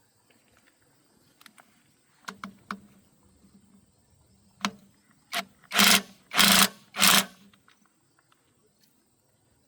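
A series of knocks from hands-on work: a few light clicks and taps, then three loud strikes about half a second apart.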